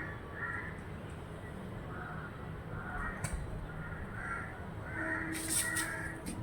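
Birds calling: a string of short, harsh calls, with a cluster of sharper, higher calls about five seconds in.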